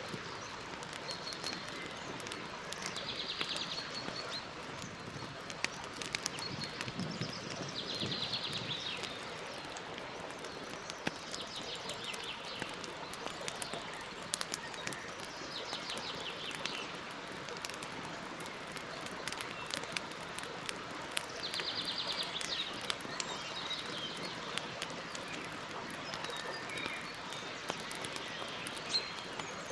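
Campfire crackling, with frequent sharp pops over a steady hiss. A bird repeats a short, rapid trill every four seconds or so.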